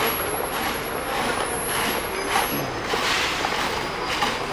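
Busy city street ambience: steady traffic noise from passing vehicles.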